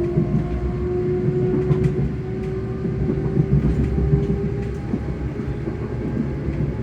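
Electric traction motors of a ScotRail Class 385 electric multiple unit humming under way. The steady whine drifts slowly up in pitch, over the rumble of the wheels on the rails and a few faint clicks.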